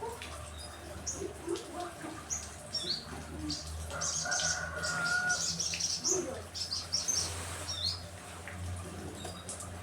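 Songbirds chirping and calling in quick, high notes, busiest in the middle, with a short steady whistle about four seconds in, over a low steady hum.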